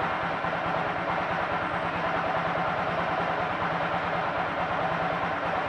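TVS Apache RTR 200's single-cylinder four-stroke engine idling steadily on freshly changed engine oil, held at idle without any throttle so the new oil can circulate.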